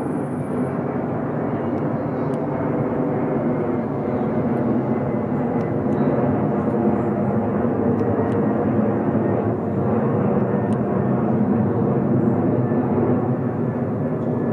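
Boeing 747-400 freighter's four jet engines at takeoff power, a steady, deep rumbling jet noise that grows a little louder a few seconds in and then holds.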